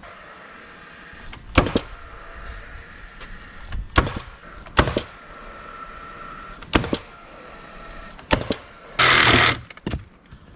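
Five or so sharp knocks at uneven intervals over a faint steady background, then a short burst of noise about nine seconds in.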